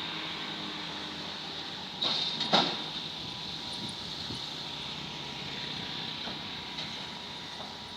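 Excavator running while it is unloaded from a trailer, with a steady mechanical hum and a high squeal, and two sharp metallic clanks about two seconds in.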